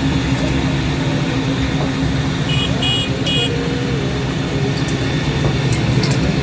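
Busy street traffic with engines running steadily; about halfway through, a vehicle horn gives three short beeps.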